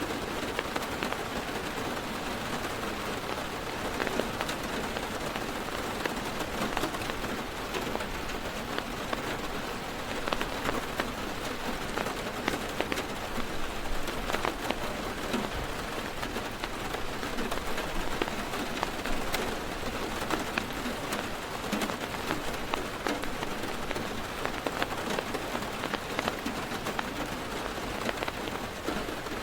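Heavy rain drumming steadily on a car's roof and windows, heard from inside the car, with many sharp individual drop ticks over a dense hiss.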